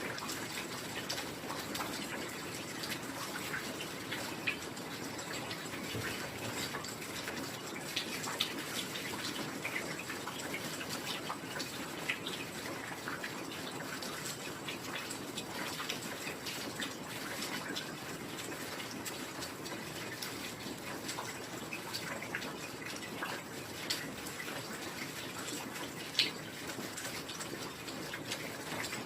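Heavy rain falling steadily: a dense, even patter of drops, with a few louder single drips standing out about four and eight seconds in and again near the end.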